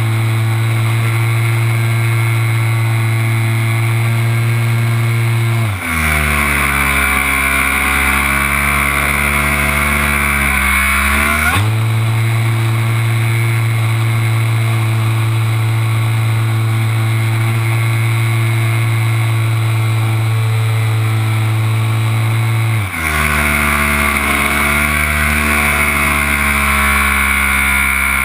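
Onboard sound of an RC Super Cub model plane's motor and propeller in flight, a steady drone. About six seconds in the throttle drops to a lower, wavering pitch, and it climbs back up to the steady pitch about halfway through. Near the end it drops again.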